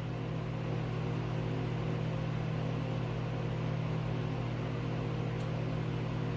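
Steady low hum with a faint hiss, unchanging throughout, with no eating or other distinct sounds standing out.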